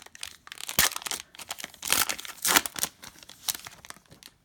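Trading card pack wrappers being crinkled and torn open by hand: irregular crackling and tearing that stops shortly before the end.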